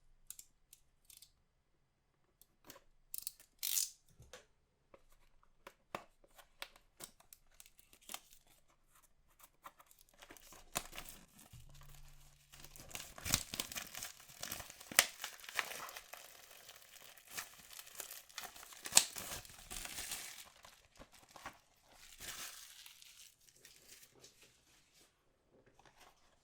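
Packaging of a Goddess Story trading card box being torn open and crinkled by hand. It starts with scattered light clicks and taps, then there is a dense stretch of tearing and crinkling in the middle, which thins out towards the end.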